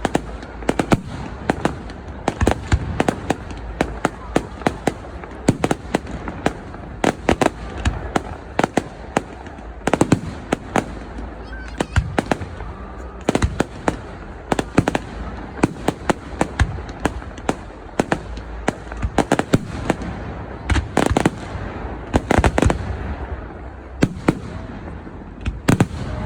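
Fireworks display: a continuous barrage of bangs and crackles from bursting aerial shells, some coming in rapid clusters, over a constant rumble, with crowd voices in the background.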